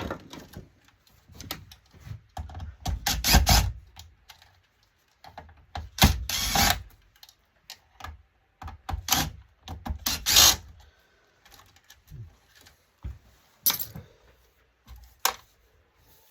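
Hands-on dismantling of an LCD monitor: irregular clatter and knocks of metal and plastic parts, with several louder bursts each about half a second to a second long.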